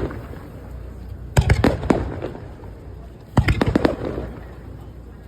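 Fireworks bursting overhead in volleys: two quick runs of several sharp bangs about two seconds apart, each trailing off in a rumbling echo, with another volley starting at the very end.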